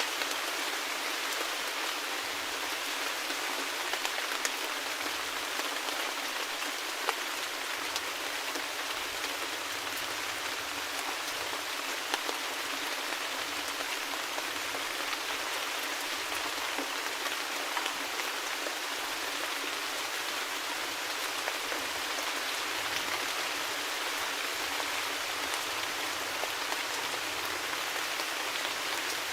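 Steady rain falling, a constant even hiss with scattered sharper drop clicks.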